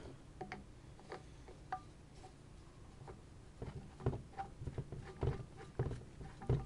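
Light clicks and knocks as a side handle is fitted and screwed into an angle grinder, sparse at first and then a run of louder knocks in the second half.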